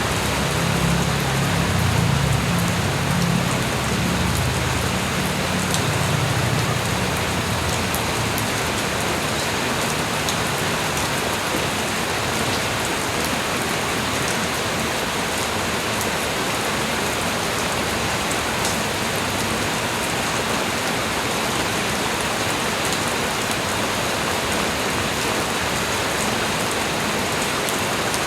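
Steady light rain falling, an even hiss of drops with scattered faint ticks. A low rumble swells in the first few seconds and fades by about seven seconds in.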